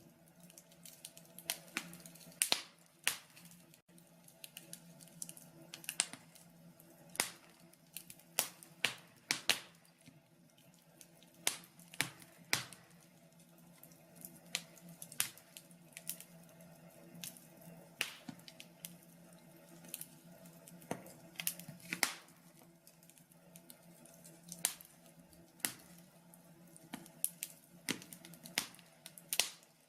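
Wood logs burning in a log burner, crackling with irregular sharp pops and snaps, some much louder than others, over a faint steady hum.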